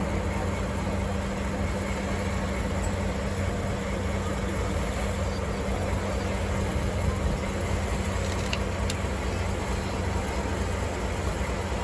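DE10 diesel locomotive's engine running steadily with an even low drone.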